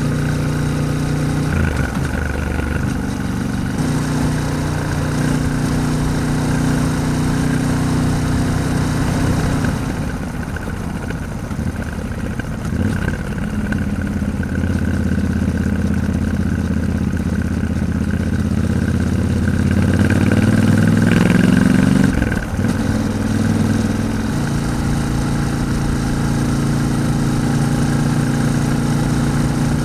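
Yamaha Ténéré 700's parallel-twin engine running while riding, its pitch holding steady for long stretches. About 20 seconds in it rises as the bike accelerates, then drops suddenly at a gear change just after 22 seconds and settles steady again.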